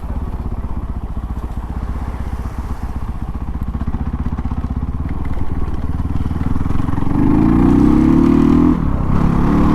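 Dirt bike engine running while ridden, a fast even pulsing. It grows louder about two thirds of the way in as it picks up revs, with a brief dip near the end before the note returns.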